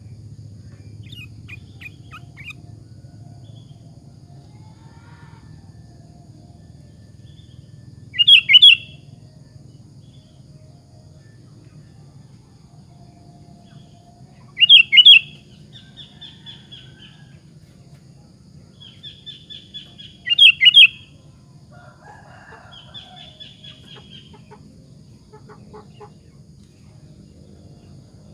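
Sooty-headed bulbul (kutilang) singing: three loud short phrases of quick notes about six seconds apart, with softer chattering calls between them, over a steady low hum.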